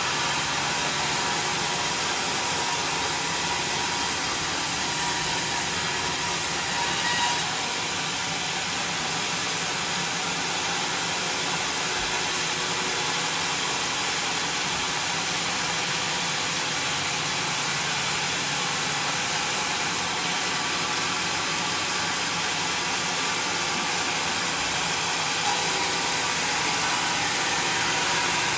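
Homemade sawmill machine running steadily with a loud, even mechanical noise. Its tone shifts slightly about seven seconds in and again near the end.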